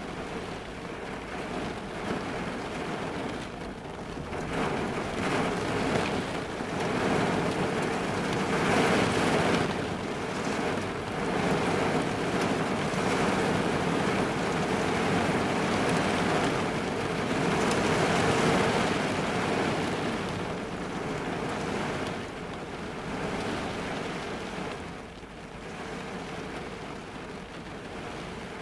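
Heavy rain drumming on the roof and windows of a car, heard from inside the cabin. It swells a few seconds in, stays heavy through the middle and eases off toward the end.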